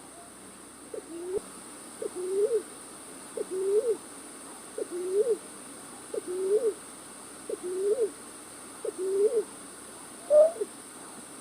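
Night-bird call used as a trapping lure: a low, hooting two-part call, a short note then a longer rising-and-falling note, repeated seven times about every 1.4 s, with a higher, different call near the end.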